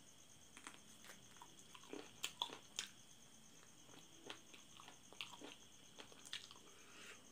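Close-up mouth sounds of eating chicken feet in sauce by hand: scattered wet smacks, sucks and small clicks of biting and chewing, a few louder ones about two to three seconds in, over a faint steady hiss.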